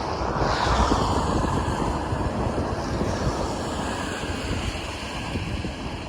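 Steady rush of wind on the microphone and road rumble while riding a bicycle in the rain, with a fainter tone falling in pitch over the first couple of seconds.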